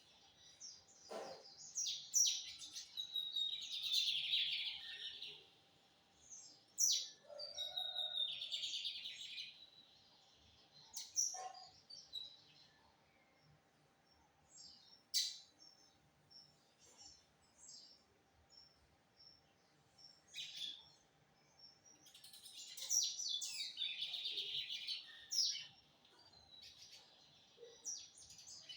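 Lined seedeater (bigodinho) singing: rapid twittering phrases of a few seconds each, with single sharp notes in the pauses between them.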